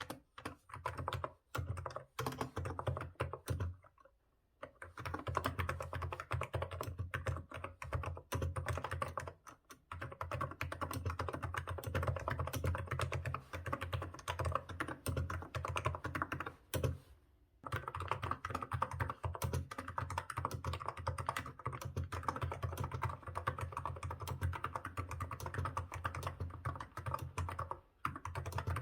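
Continuous fast typing on a Hansung GK868B wireless keyboard with 35 g electrostatic capacitive switches, a dense run of soft key strokes broken by a few brief pauses.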